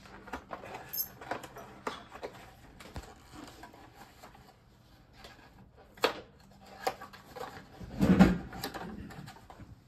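Metal tool parts being handled: scattered clicks and knocks as a plane blade is fitted in a Tormek grinder's sharpening jig, with a louder thump about eight seconds in.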